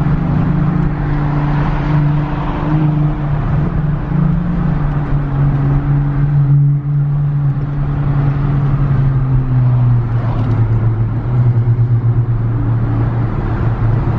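Car engine running under way with road noise, its note fairly steady, then dropping lower from about ten seconds in as the car eases off.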